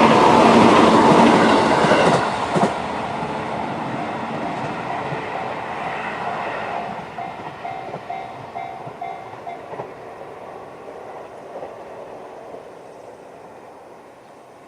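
A JR 211-series electric train passing over a level crossing, its wheels clacking over the rail joints, loudest in the first two seconds or so and then fading as it moves away. The crossing's electronic warning bell, the JR standard tone, keeps ringing under it and stops about ten seconds in.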